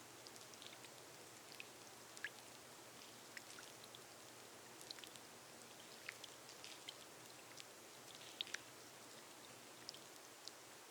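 Gentle rain falling on a glass roof: a faint steady hiss with scattered sharp, irregular drop taps.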